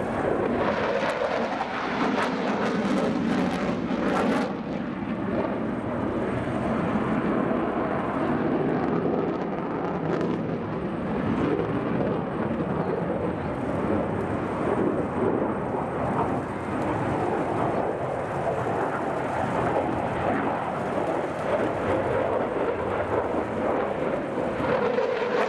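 Jet noise from a JASDF F-15J fighter's twin F100 turbofan engines, a steady, loud rumble during a display flight.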